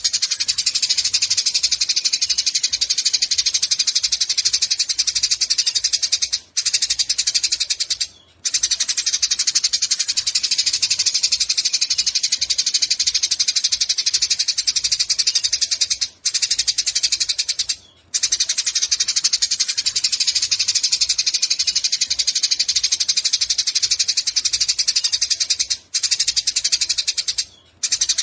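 Eurasian tree sparrow chirping rapidly and without let-up, a dense stream of high chirps. It breaks off for a moment a few times, at gaps that come back about every ten seconds.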